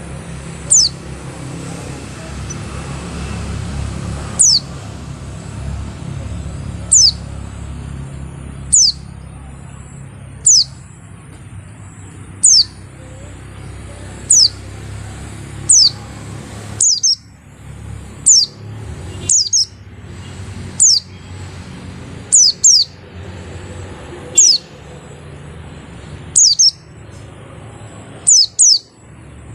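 A white-eye (pleci) calling with short, high notes that sweep downward, given singly or in quick pairs about every one to two seconds, over a steady low rumble.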